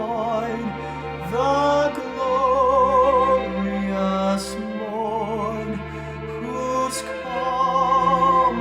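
Slow sung music: voices holding long notes with vibrato over a steady, sustained lower accompaniment.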